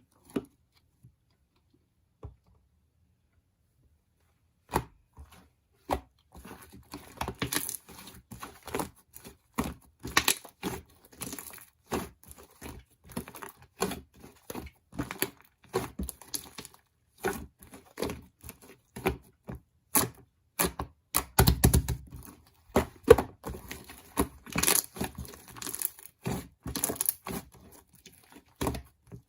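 Dense, irregular crinkling and crackling with sharp clicks, as of something being crumpled or torn by hand. It starts after a few seconds of quiet broken only by a few single clicks.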